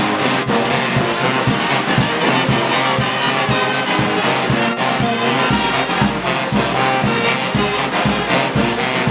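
Brass band playing, with trombones and trumpets held over a steady drumbeat.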